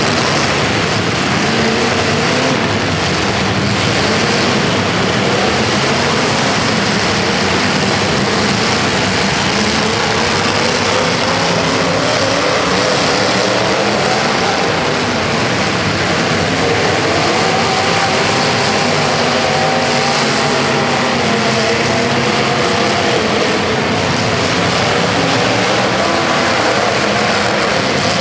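Several racing engines running at once, their pitches rising and falling as they rev up and back off, over a steady wash of engine noise.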